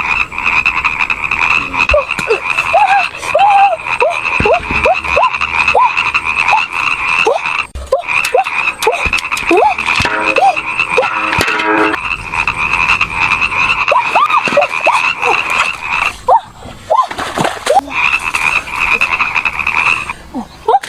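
A chorus of frogs calling: many short croaks that rise and fall overlap each other over a steady high-pitched trill. The trill drops out briefly twice, about a third of the way in and again about three quarters through.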